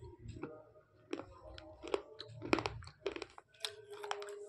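Slate pencils being bitten and chewed close to the microphone: a string of sharp crunches, about two a second.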